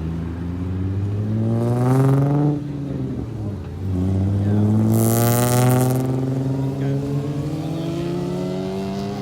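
Car engine accelerating hard as the car pulls away: the pitch climbs for about two and a half seconds, drops at a gear change, then climbs again more slowly through the next gear.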